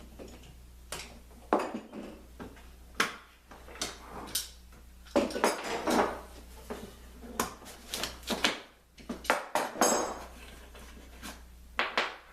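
Metal tools and clamps being handled on the workpiece: irregular clinks, taps and short scrapes, busiest about halfway through and again near the end.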